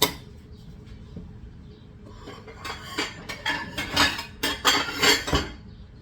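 A sharp clack, then about three seconds of rapid scraping, rattling strokes as flour is worked through a sifter.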